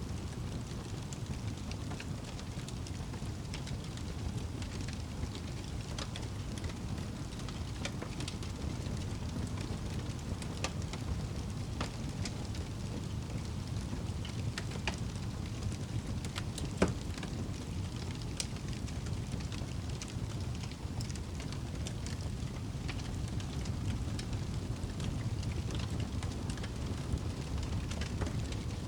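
Wood fire burning in a fireplace: a steady low rush of flame with scattered crackles and pops, one louder pop about halfway through.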